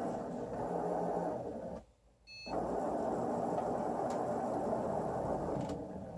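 Excalibur Mirage chess computer's robotic arm motors whirring as the electromagnetic head travels over the board. The whirring stops for about half a second two seconds in, then starts again with a faint brief tone, and dips for a moment near the end.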